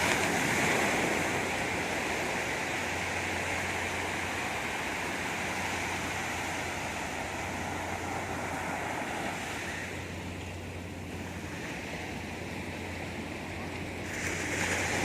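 Sea surf washing on the shore, a steady rushing noise that eases off about ten seconds in and swells again near the end.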